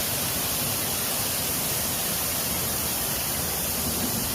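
Steady, even rushing noise with no distinct calls, knocks or changes, strongest in the high range.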